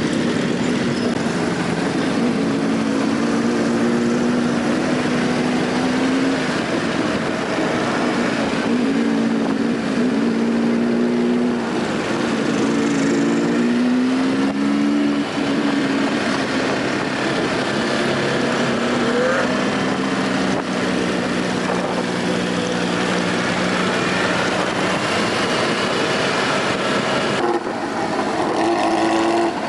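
Many motorcycle engines running together in slow, crowded traffic, several engine notes overlapping and rising and falling as riders rev.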